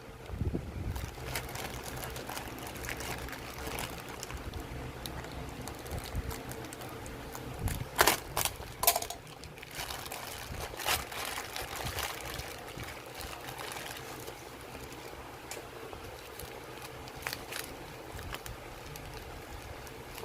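Handling noise: scattered small clicks and rustles, with a cluster of sharper clicks about halfway through, over a steady low hum.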